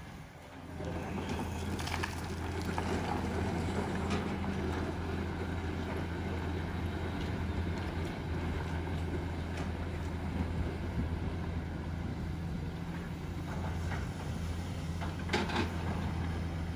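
Excavator's diesel engine running steadily with a low hum, with a few sharp knocks over it, the loudest near the end.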